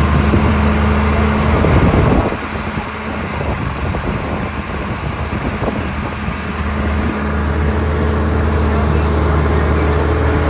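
Tour bus engine running steadily with a low hum; the engine note drops about two seconds in and builds back up around seven seconds.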